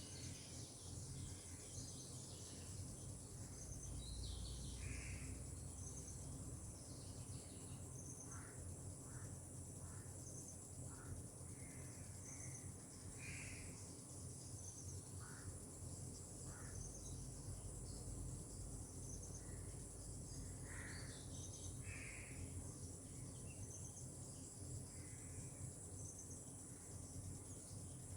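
Outdoor tropical ambience: a steady high insect drone with short, evenly repeated chirps about once a second, and scattered brief bird calls over a low rumble.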